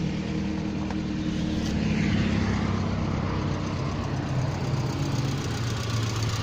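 SAAB 9000's 2.0-litre turbocharged four-cylinder petrol engine running steadily after a fresh start, sounding okay.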